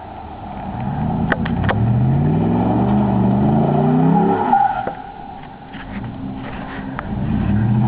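Dodge pickup truck doing a burnout: the engine revs up for about three seconds with the tyres spinning and squealing, drops back about halfway through, then revs up again near the end.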